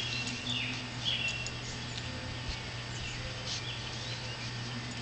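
Short high bird chirps, several in the first second and a half and one more about midway, over faint scattered clicks from a dog chewing a gum tree seed ball.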